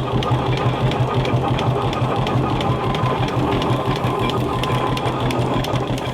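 An engine running steadily, with a strong pulsing low hum and a rapid, even mechanical clatter of about four clicks a second; it cuts off suddenly at the end.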